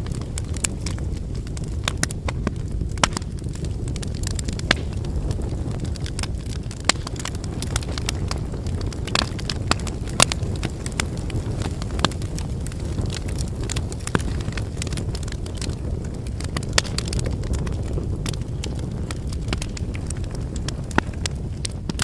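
Wood campfire burning: a steady low rumble under frequent sharp crackles and pops from the burning logs, a few of them louder snaps.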